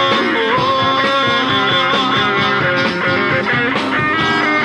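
A live sertanejo band plays an instrumental fill between sung lines, with guitar to the fore over bass and drums.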